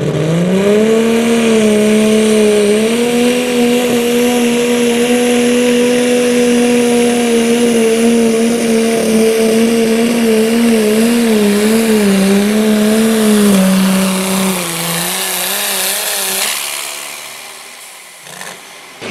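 Engine of a pulling truck or tractor held at high revs under load down the pull track. The pitch climbs in the first second, stays steady, wavers near the end of the run, then drops and fades as the engine comes off the throttle.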